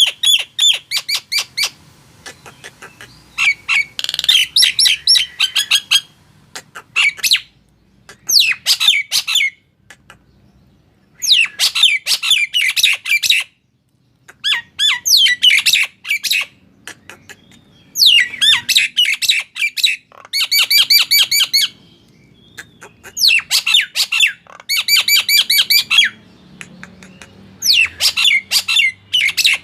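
Male Nias hill myna calling in loud bouts of rapid, repeated sharp notes, some sweeping in pitch. The bouts last a second or three each and are broken by short pauses. This is the lure call used to set other birds calling.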